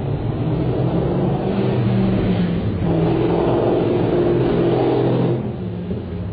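Corvette V8 engine revving hard under acceleration, its note easing off a little after about five seconds.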